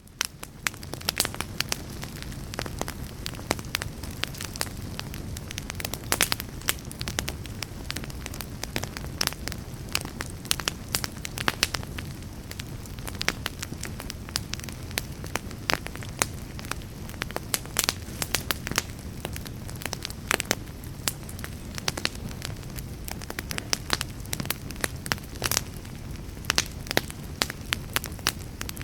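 Wood fire burning in a fireplace: a steady low rush of flame with frequent, irregular sharp crackles and pops from the burning logs.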